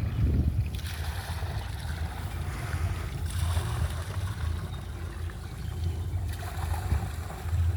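Rushing wind and water noise over a steady low rumble, swelling and fading several times.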